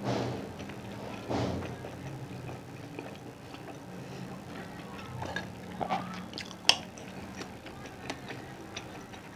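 Close-miked chewing and biting: small scattered clicks and mouth noises, with two longer noisy swells near the start and one sharp click about two-thirds of the way in.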